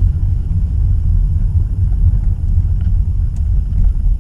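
Low, steady rumble of a 2016 Acura TLX on the move, heard from inside the cabin: road and tyre noise.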